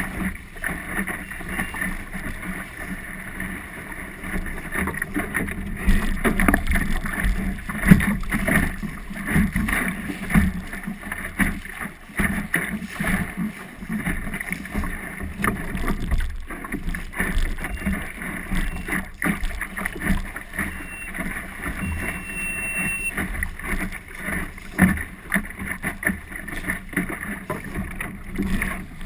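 Water sloshing and splashing irregularly against the hull of a small boat under way.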